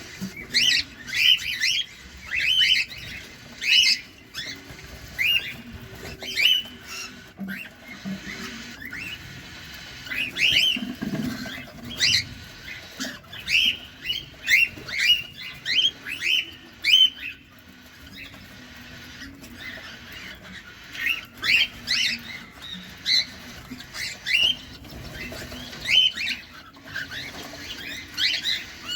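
Cockatiels calling in runs of short, sharp chirps, several a second, with a quieter lull about two-thirds of the way through.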